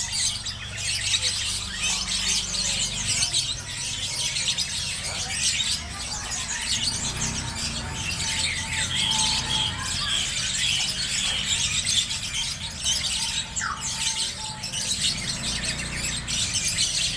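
Small birds chattering continuously: a dense stream of short, high-pitched squeals and chirps, over a low steady hum.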